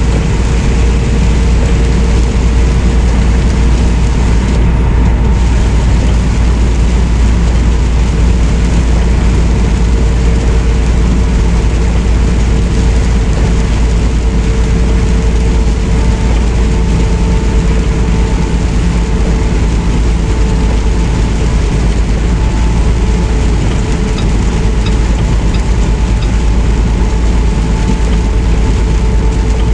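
Semi truck driving at steady speed: a constant low engine and road drone with a faint steady hum over tyre hiss.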